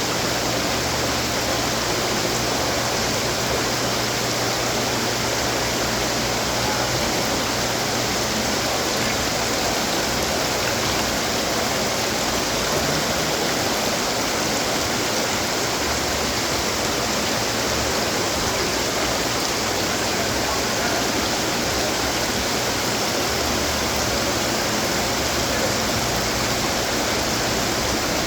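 Running garden fountains: water splashing and trickling steadily.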